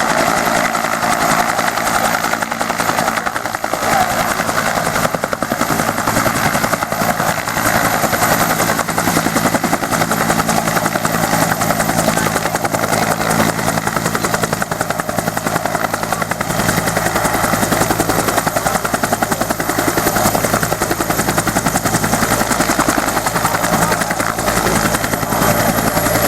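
Bell UH-1 Huey helicopter running steadily and loudly, its two-bladed main rotor beating in a fast, even rhythm.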